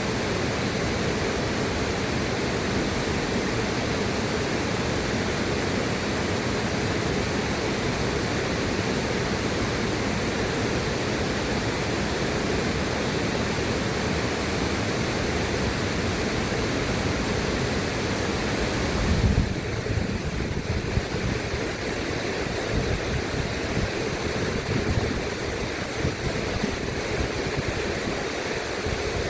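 River water rushing in a steady, even hiss. About two-thirds of the way through, a brief low surge comes in and the rush turns duller and more uneven.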